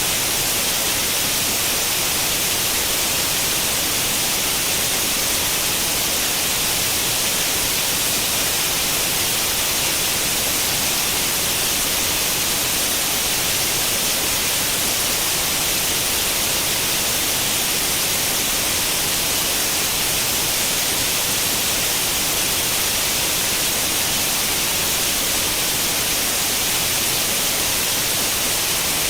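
Steady static hiss like an old tube television tuned to no channel, even and unchanging, with most of its energy in the high frequencies.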